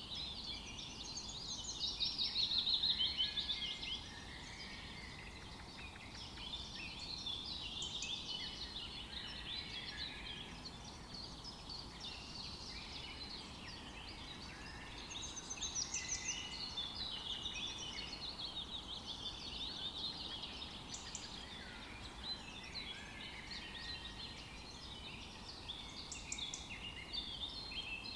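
Many songbirds singing and calling at once in a forest chorus, with chirps and trills overlapping throughout, over a faint steady background hiss. The chorus swells twice: about two seconds in, and again midway.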